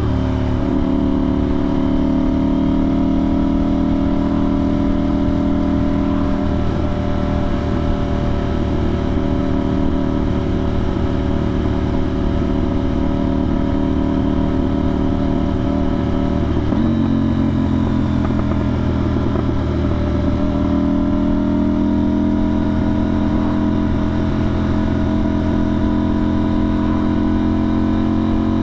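2025 KTM 990 Duke's parallel-twin engine, breathing through a budget aftermarket exhaust with the soundbox removed, running at steady cruising revs. About 17 seconds in the pitch drops suddenly as it shifts up a gear, then climbs slowly again.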